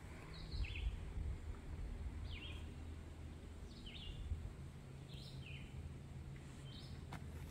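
A songbird singing short, falling phrases about every second and a half, over a steady low rumble.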